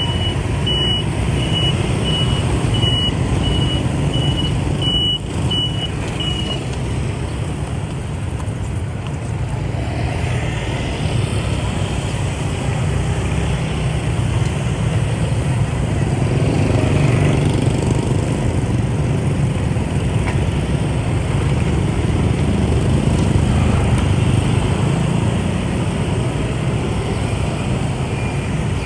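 Steady noise of a motorbike ride in dense traffic: engines running and road rumble. For the first six seconds or so a high electronic beep repeats quickly and evenly.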